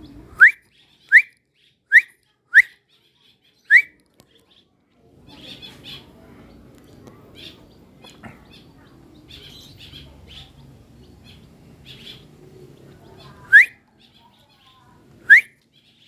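A bird calling in loud, short, sharply rising notes: five in quick succession, then two more near the end.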